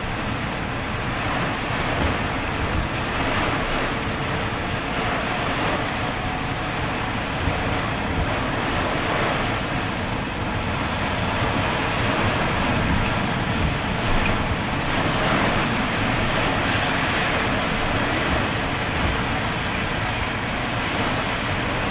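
Hurricane winds and heavy rain in a continuous loud rush that surges and eases in gusts, buffeting the microphone.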